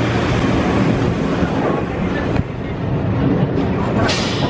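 Moving passenger train heard from an open coach doorway: steady rumble and clatter of the wheels on the track with rushing air, and a brief hiss about four seconds in.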